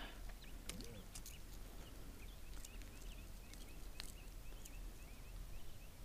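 Quiet outdoor air with a bird chirping repeatedly, a few short chirps a second through the middle, and a few light clicks from hands working a fishing jig out of a caught bass.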